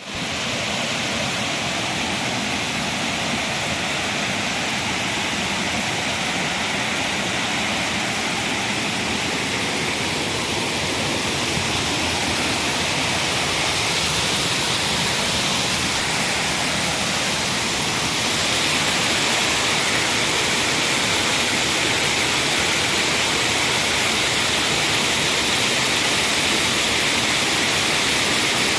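Waterfall rushing steadily, a dense even roar of falling water that grows a little louder about two thirds of the way through.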